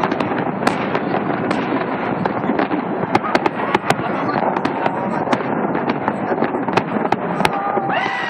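Fireworks salute: dense, continuous crackling with many sharp cracks and pops. Near the end a whistling tone rises and then holds.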